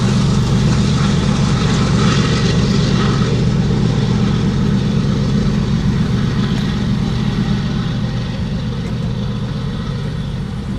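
Freight train passing: a steady low diesel locomotive engine drone with the noise of the train, slowly fading as it moves away.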